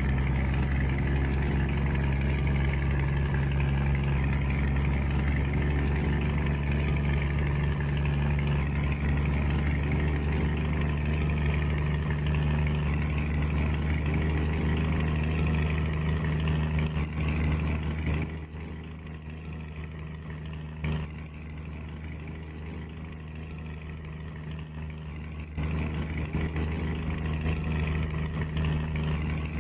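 Scania G124 truck's six-cylinder diesel engine running steadily with a deep hum. It goes quieter for several seconds about two-thirds of the way through, then comes back up.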